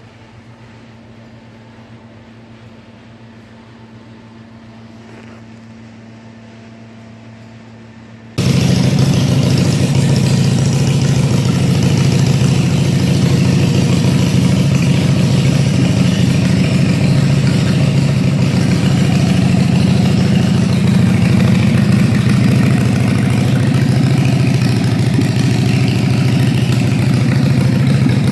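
A faint steady hum, then about eight seconds in the loud sound of a 2015 Harley-Davidson Sportster Iron 883's air-cooled V-twin comes in abruptly and idles steadily.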